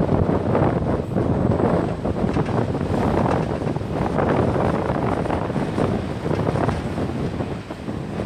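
Wind buffeting the microphone: a loud, uneven rumble that swells and dips in gusts.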